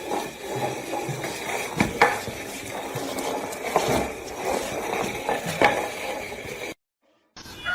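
Light clattering and clinking with a few sharp clicks, broken by a brief dead silence near the end.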